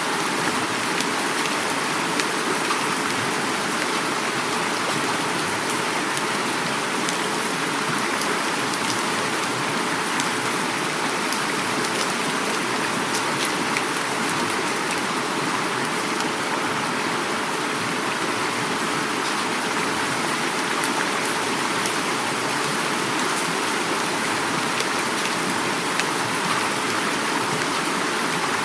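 Heavy rain falling steadily, mixed with flowing river water, with sharp drop ticks scattered through the hiss.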